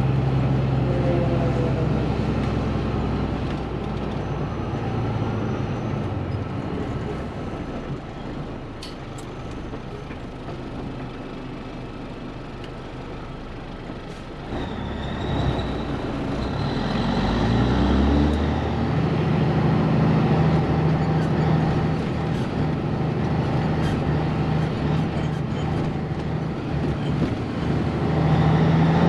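Heavy diesel truck engine running. It eases off after a couple of seconds, then picks up again past the middle and holds a steady, stronger note.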